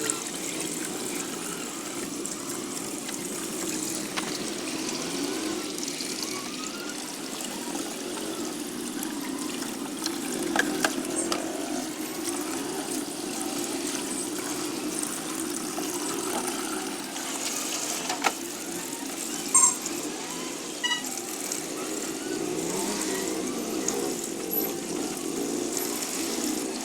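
Water running steadily, with a few light clicks and knocks along the way.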